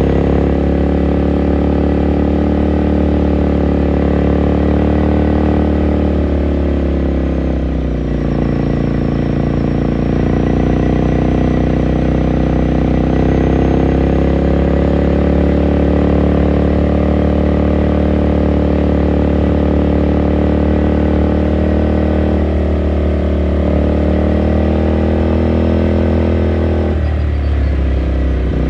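2018 Ducati Scrambler Sixty2's air-cooled 399 cc L-twin running under way, heard onboard. The engine note falls about seven seconds in, holds steady for a long stretch, then dips and climbs again near the end.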